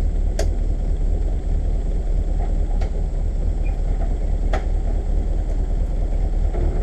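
Suzuki Samurai's engine idling steadily with a low rumble, with a few short light clicks about half a second, three seconds and four and a half seconds in.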